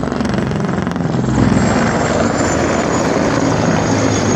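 Mi-35 (Mi-24 family) attack helicopter flying low and close, its main rotor beating loudly and steadily over a thin, high turbine whine.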